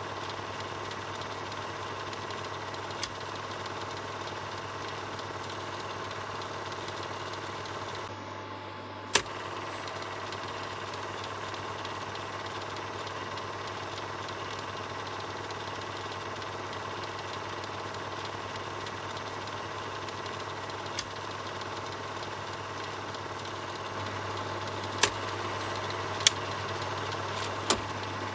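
Film projector running with a steady mechanical whir and hum, with a few sharp clicks: one about 9 seconds in and three close together near the end.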